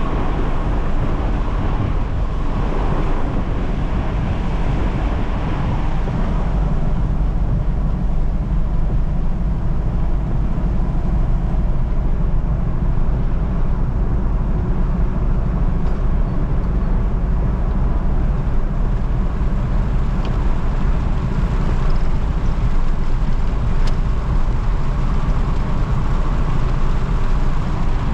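Steady rumble of a moving road vehicle's engine and tyres, running at an even level throughout.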